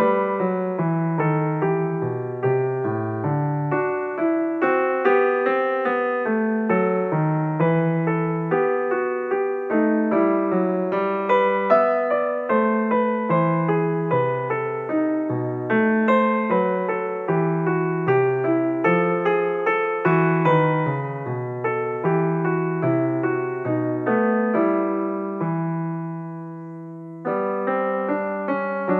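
Piano music: a slow, steady run of struck chords and notes, each fading after it is played. Near the end one chord is left to die away before the playing starts again.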